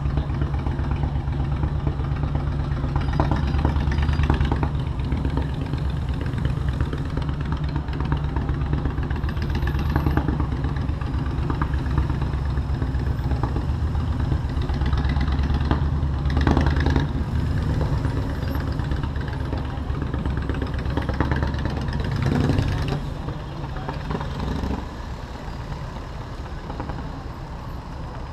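Motorcycle engine running on the road, a steady low throb mixed with city traffic noise. Near the end the engine note rises briefly, then the sound settles to a quieter level.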